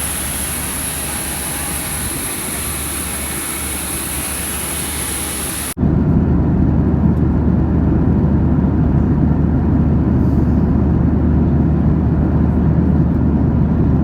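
Steady aircraft noise from a Boeing 737-800. At first it is an even cabin hiss with a thin high whine. About six seconds in, an abrupt cut brings a louder, steady low rumble.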